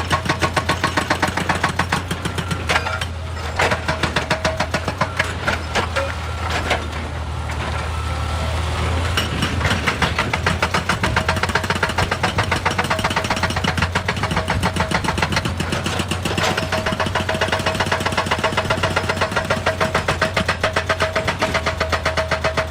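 Excavator at work: its diesel engine running under a fast, even pounding of about five beats a second, which eases briefly partway through and then picks up again.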